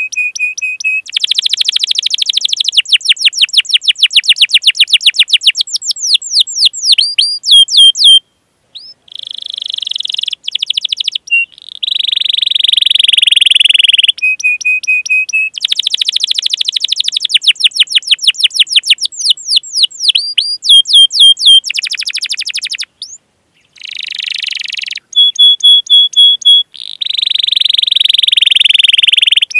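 Domestic canary singing a loud, long song of rapid trills, repeated chirps and buzzy rolling phrases, with brief pauses about 8 and 23 seconds in.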